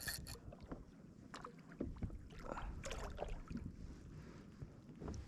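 Faint, irregular knocks against a kayak hull from small kingfish bumping and rubbing against the boat.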